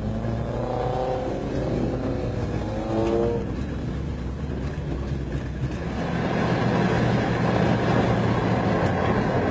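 Big-block Chevy 454 V8 in a Toyota pickup running under way, heard from inside the cab, with the engine and road noise growing louder about six seconds in.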